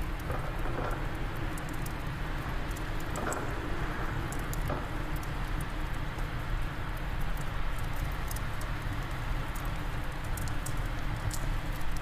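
Steady low wind rumble with a wood fire crackling in small scattered pops.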